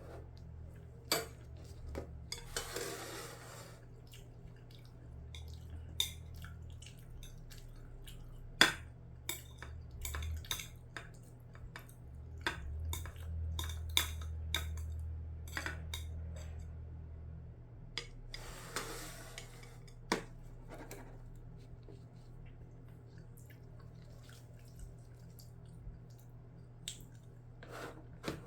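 Cutlery clinking and tapping against a bowl and dishes during a meal of rice and scrambled eggs: many separate sharp clicks, with two longer noisy scrapes of about a second each.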